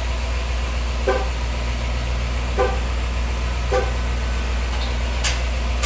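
A car engine idling nearby with a steady low rumble, while three short electronic beeps sound about a second and a half apart.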